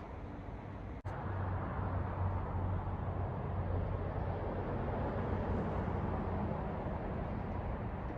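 A train running by with a steady low rumble, which begins after an abrupt cut about a second in.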